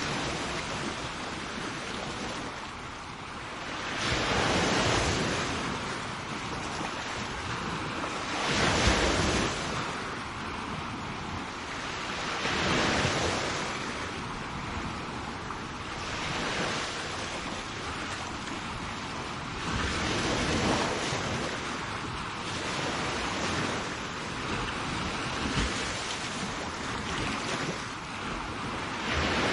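Sea waves washing onto the shore, each breaking wave swelling up and falling back about every four seconds over a steady wash of surf.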